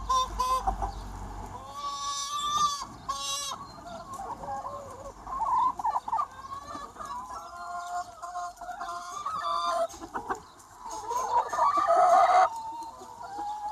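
A large free-range flock of hens clucking and calling over one another, with a louder burst of squawking calls near the end.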